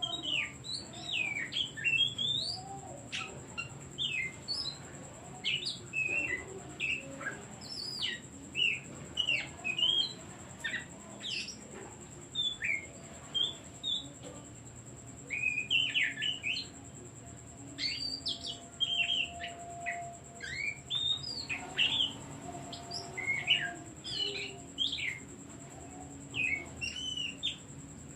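Oriental magpie-robin (kacer) singing a fast, varied run of short whistled and chattering notes, with a steady high-pitched whine behind it.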